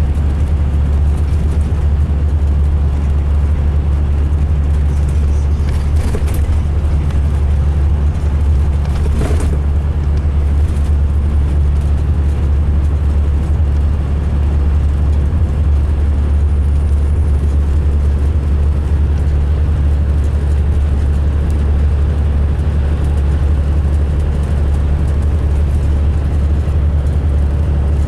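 2005 MCI D4500 coach's diesel engine running steadily with a strong low hum, a coach described as sounding rough both running and idling. A few faint clicks come through about 6 and 9 seconds in.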